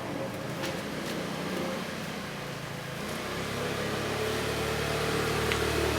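Street traffic noise; about halfway through, a nearby vehicle's engine comes in and grows louder as it approaches.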